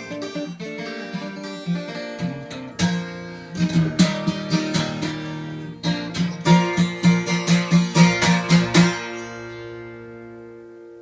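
Solo acoustic guitar in CGDGBE open tuning, capoed at the third fret, playing the song's closing bars. Picked notes give way to a run of hard strums, about four a second, and then a final chord rings out and fades.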